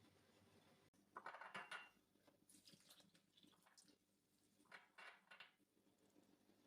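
Faint handling noises, light scraping and clattering, in three short spells: about a second in, around the middle, and near five seconds.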